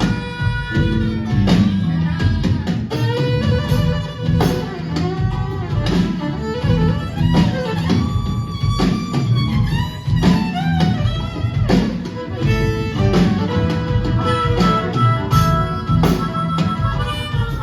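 Live band playing an instrumental break between verses: drums keep a steady beat under bass and guitars while a lead melody line plays over the chords.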